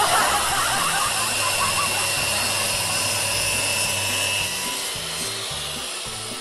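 A power tool running steadily with a faint high whine, getting a little quieter near the end.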